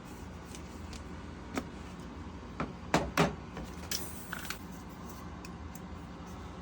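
A few short knocks and clicks over a steady low hum. Two louder knocks come close together about three seconds in.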